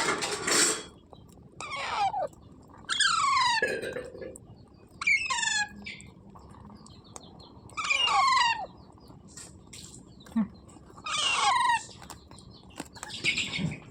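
Pet parrot giving a series of about six short, harsh calls, each falling in pitch, spaced a second or two apart.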